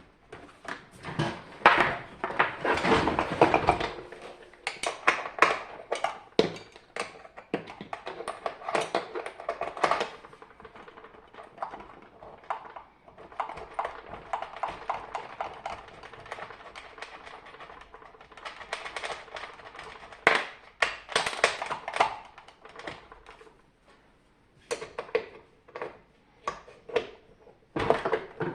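Dehumidifier casing and parts being handled during disassembly: irregular clicks, knocks and scraping of plastic and small metal parts, with a busier clatter in the first few seconds and again near the end.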